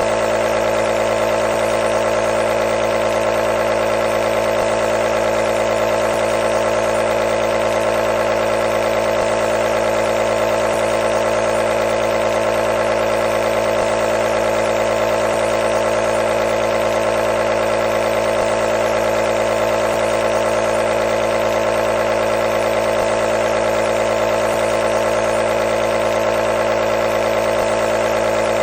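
Nebulizer compressor running with a steady, even hum.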